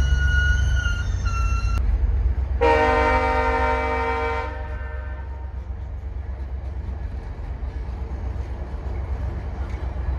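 VIA Rail passenger train's diesel locomotive rumbling at low speed; a high steady squeal cuts off suddenly about two seconds in, then the locomotive's air horn sounds one chord blast lasting about two seconds.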